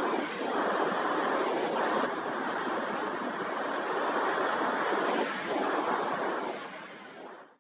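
Rough sea surf washing and breaking against the shore, swelling and easing, with wind buffeting the microphone; it fades out near the end.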